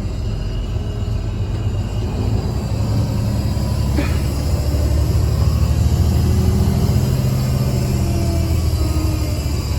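Mercedes-Benz O307 bus's diesel engine heard from inside the cabin while the bus is driving: a steady low rumble that grows louder in the middle, with one sharp click about four seconds in and a whine falling in pitch near the end.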